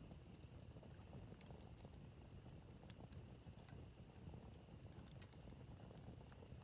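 Wood campfire crackling quietly: scattered sharp pops and snaps from the burning wood over a soft, low rumble.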